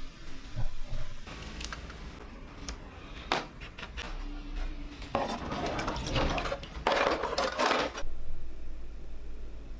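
Small pressed-steel toy parts being handled, with a few sharp clinks, then two stretches of about a second each of scraping or rubbing noise from working the metal.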